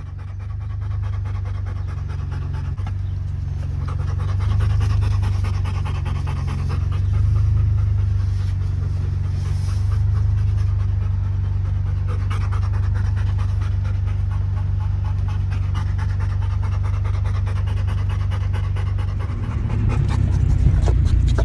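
A dog panting steadily over a continuous low rumble.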